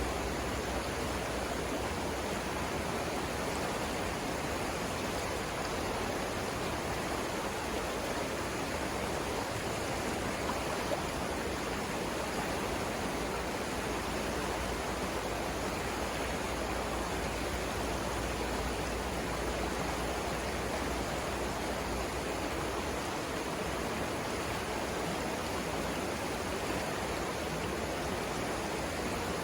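The Savannah River's water rushing steadily, an even, unbroken noise.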